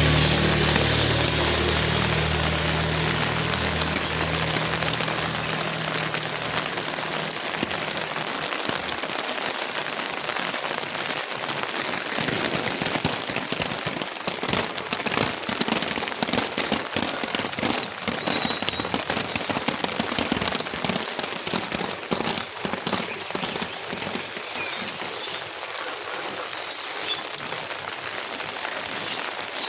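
Heavy rain falling on hard surfaces: a dense, steady hiss crackling with many individual drop impacts. A low rumble under it fades out over the first several seconds.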